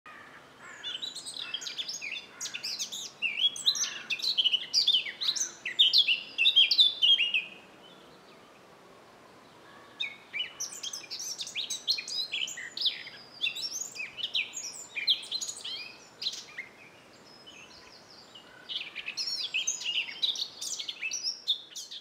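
Songbirds singing: quick, high chirping and warbling phrases in three bouts, with pauses of a couple of seconds between them.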